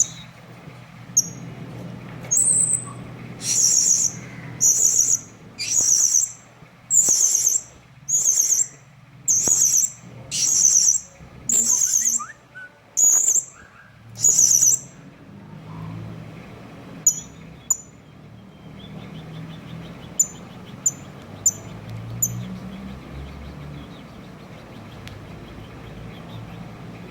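Blue-crowned hanging parrot (serindit) calling: a run of about a dozen high-pitched calls, roughly one a second, then a few short sharp chirps after a pause.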